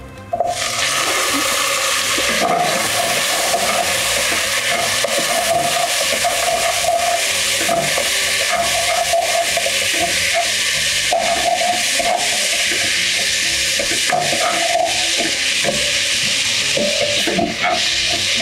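Chopped onions and tomatoes frying in hot oil in a non-stick pot, sizzling steadily, while a wooden spatula stirs and scrapes them. The sizzle sets in abruptly about half a second in.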